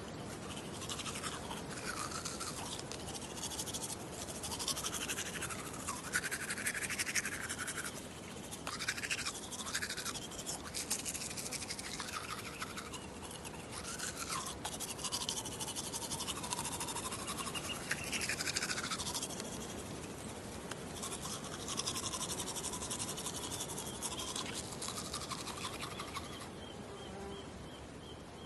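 Teeth being brushed with a toothbrush: continuous scratchy bristle scrubbing, its tone rising and falling as the brush moves around the mouth.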